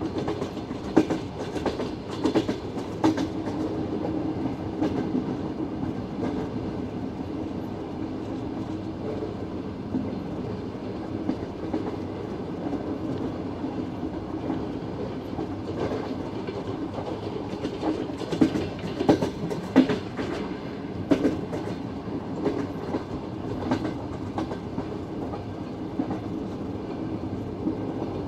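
Passenger train carriage running at speed, heard from its open window: a steady rolling rumble with wheels clattering over rail joints. Sharp knocks cluster a couple of seconds in and again about two-thirds of the way through.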